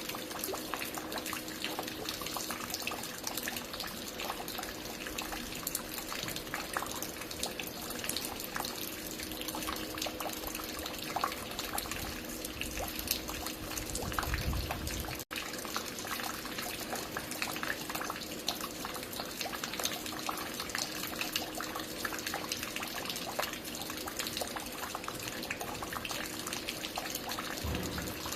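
Water falling and dripping at a construction site, a steady spatter of many drops with a faint steady hum underneath. A low rumble rises about 14 seconds in, and the sound cuts out for an instant just after.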